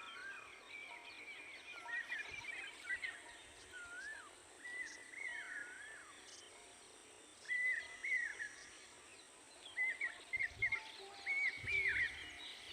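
Birds calling: short whistled chirps that rise and fall in pitch, repeated in clusters, over a faint steady hiss.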